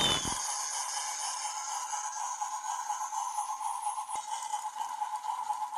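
A crackling noise dies away in the first half-second. It leaves a steady, slightly wavering high tone, with fainter higher tones above it.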